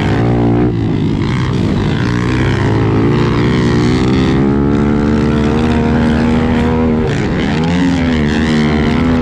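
110cc four-stroke single-cylinder pit bike engine running hard at high revs, its pitch climbing steadily. The pitch dips briefly about a second in and again around seven seconds in, then rises again.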